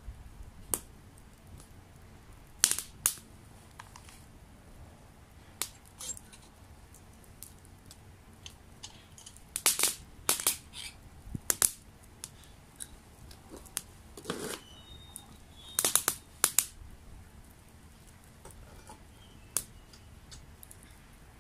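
Small campfire of split wood crackling: irregular sharp pops and snaps, sometimes several in quick succession, with quiet between.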